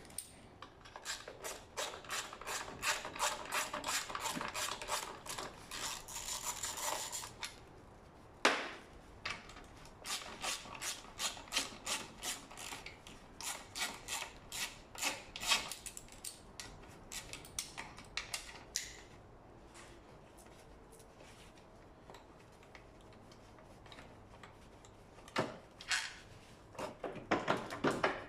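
Hand ratchet wrench clicking in quick runs as bolts are undone, with a sharp metal click between runs and a quieter pause near the end.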